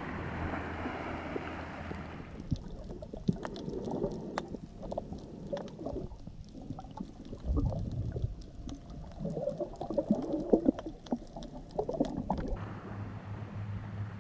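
Sound through a camera dipped underwater, muffled and full of crackling clicks and bubbling gurgles, between a few seconds of wind and water noise above the surface before and after.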